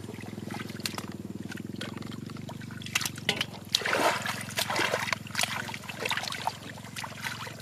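Water splashing and sloshing in irregular bursts, heaviest from about three seconds in, over a steady low hum.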